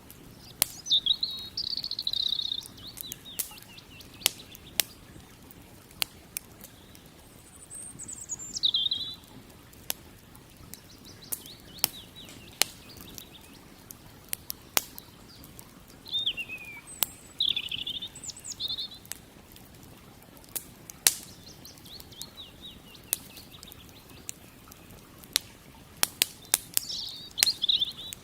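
Campfire crackling with many sharp pops, while a songbird sings short phrases of falling whistles about four times. A faint steady rush of river water runs underneath.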